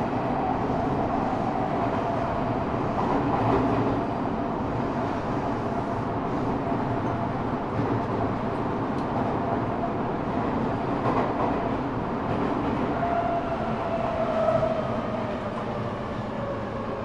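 Running noise inside an Eidan 6000-series subway car: wheels on rail, with the high-pitched whine of the Mitsubishi three-level VVVF inverter carried over from the 7000 series. Near the end the inverter tone starts falling in pitch as the train slows for the next station.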